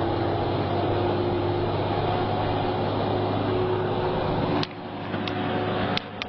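Heavy truck engine running steadily. The sound drops suddenly about four and a half seconds in, with a few sharp clicks after that.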